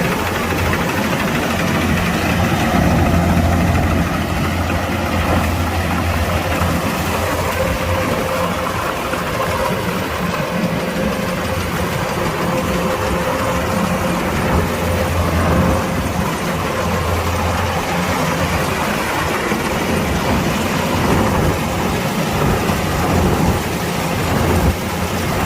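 Kubota DC-105X combine harvester's diesel engine and machinery running steadily, with a strong low hum and a faint steady whine in the middle.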